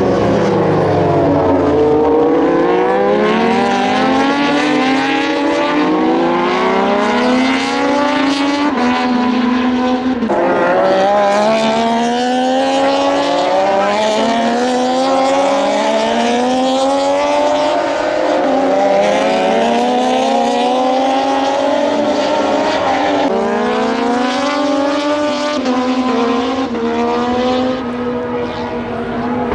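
Moto2 race bikes' Triumph 765 cc three-cylinder engines at full throttle, several bikes accelerating and shifting up through the gears. The pitch keeps climbing and snapping back down at each upshift.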